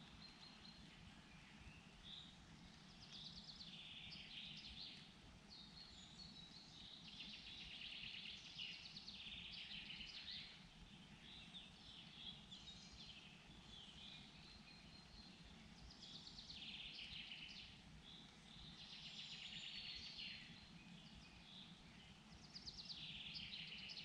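Faint forest birdsong: a songbird repeating short trilling phrases every few seconds, over a low steady background hum.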